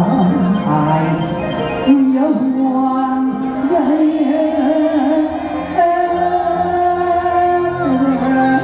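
Live Thai luk thung and mor lam band music, a melody of long held notes wavering slightly in pitch, phrases changing about every two seconds.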